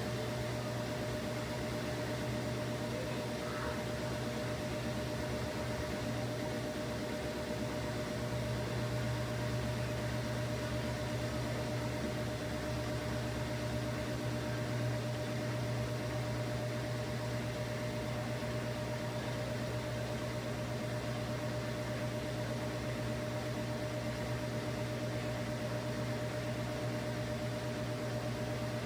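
Washing machine running: a steady low motor hum with a thin whine held on one note, unchanging throughout.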